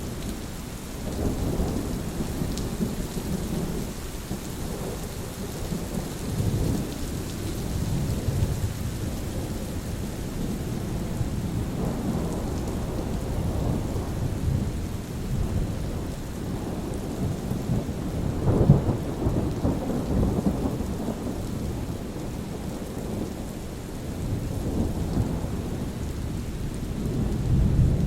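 Thunderstorm: a steady hiss of rain under continuous rolling thunder that swells and fades, with its loudest crack-and-rumble a little past the middle and another swell near the end.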